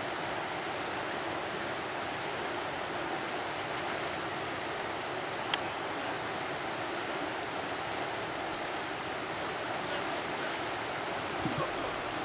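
Fast mountain river rushing steadily, with one sharp click about five and a half seconds in.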